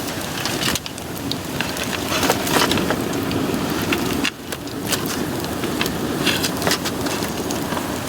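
Bamboo fire burning hard in a pail can with air holes cut near the bottom, drawing air for a tall column of flame: a steady rushing of flame with many sharp crackles and pops.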